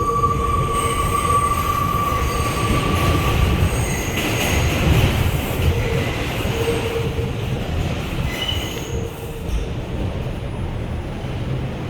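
R142 subway train's steel wheels squealing on a sharp curve over the steady rumble of the running train; the squeal comes and goes in several high tones and dies out about nine and a half seconds in.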